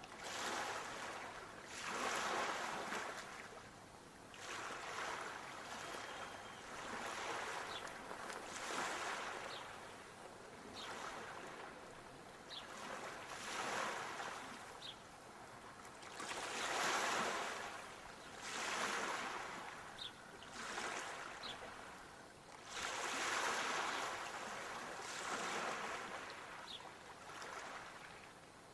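Sea waves breaking and washing up the shore, each swell rising and falling away every two to three seconds.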